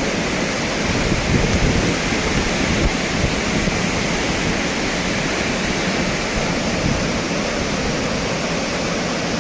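Thomson's Falls, a 74-metre waterfall heard close to its base: the steady, thundering rush of falling water, swelling slightly about one to three seconds in.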